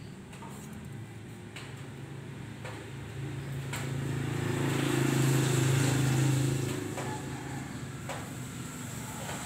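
A motor vehicle passing close by, its engine hum building over a few seconds, peaking past the middle, then fading, with a few light metallic clicks.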